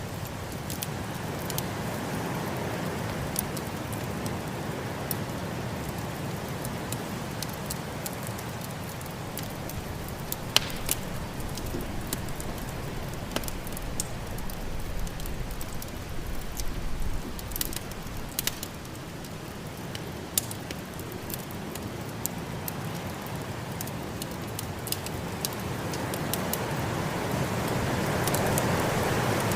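Wood fire crackling, with scattered sharp pops, over the steady blowing of snowstorm wind; the wind swells louder near the end.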